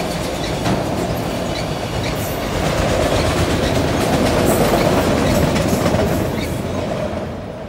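Autorack freight cars rolling past on steel wheels: a steady rumble and rattle with occasional sharp wheel clicks on the rail. The sound swells a little past the middle and fades near the end as the cars move away.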